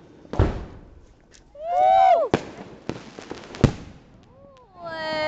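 New Year's Eve fireworks going off: four sharp bangs spread over a few seconds, the loudest near the end.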